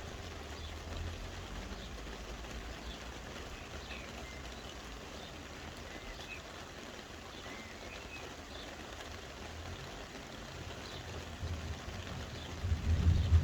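Soft rain falling steadily, with faint short high chirps of birds scattered through it. A low rumble swells briefly near the end and is the loudest moment.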